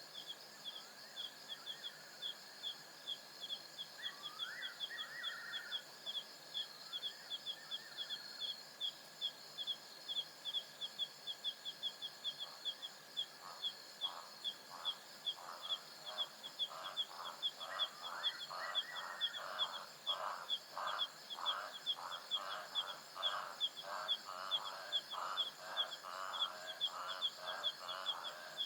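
African savanna night ambience. Insects trill steadily, with a rapid high chirp about three or four times a second. A few short gliding calls come early, then from about halfway an animal call repeats about twice a second and grows louder.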